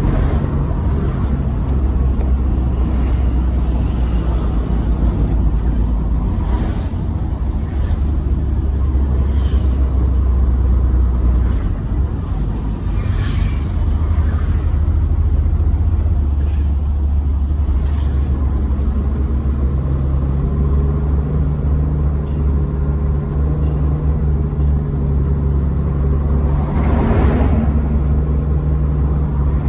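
Truck running on the road: a steady, loud low engine rumble with a few short knocks and rattles. About two-thirds of the way through, a steady engine hum comes up.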